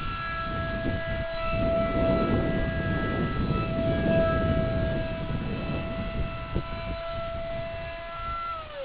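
Electric ducted fan of a radio-controlled Eurofighter model jet, a steady high whine holding one pitch as it flies, then dropping in pitch near the end as the throttle comes back. A low rumble runs underneath.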